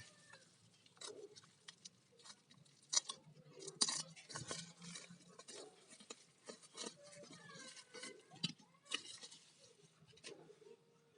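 Faint, scattered light clicks, taps and rustles of a replacement phone LCD screen and its packaging being handled during unboxing.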